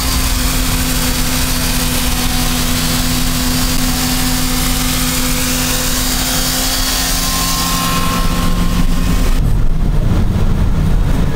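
Vehicle driving along with its window open: steady engine drone under loud wind and road noise. The wind noise drops off sharply about nine and a half seconds in.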